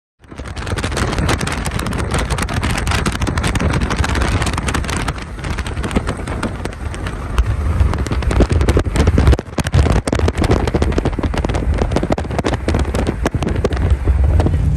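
Car travelling at highway speed: a steady rush of road and wind noise over a low engine drone, with many small crackles. It starts abruptly.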